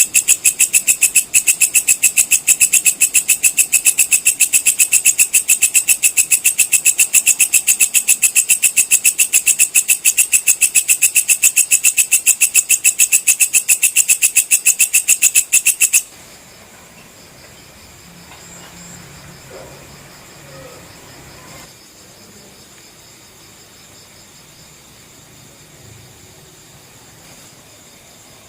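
Walang kecek (belalang kecek) insect calling: a loud, fast, even train of high chirping pulses that stops abruptly about 16 seconds in. After it stops, fainter steady high insect trilling carries on.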